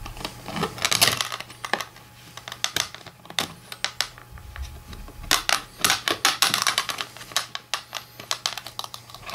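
Irregular metallic clicks and clinks as the broken spring is worked carefully out of an AllStar fencing reel by hand and with tools.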